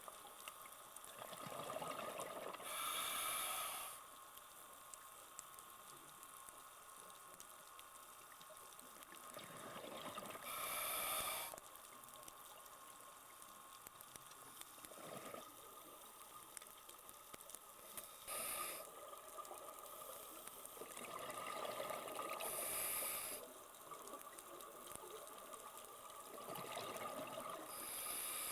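Scuba diver breathing through a regulator underwater: each breath is a hiss of inhalation followed by a burst of exhaled bubbles, repeating several times at a slow, even pace.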